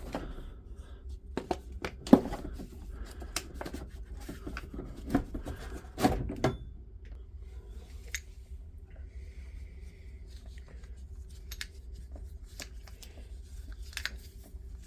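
Scattered clicks and knocks of the plastic bottom cover and a hand tool being handled as the cover is refitted onto a rotary hammer, with a few louder knocks about two, five and six seconds in. A faint low hum runs underneath.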